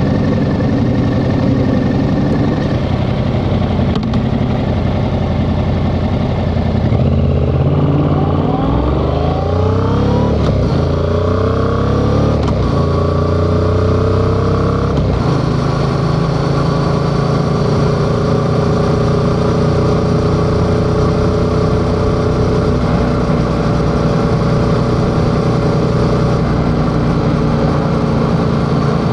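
Yamaha XSR700's 689 cc parallel-twin engine running steady, then, about seven seconds in, pulling away with the revs rising and dropping back through about three upshifts before settling into a steady cruise.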